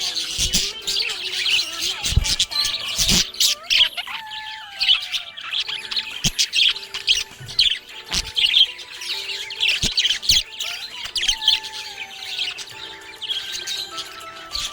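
Budgerigar chirping and warbling in fast, continuous chatter, broken by a few sharp clicks.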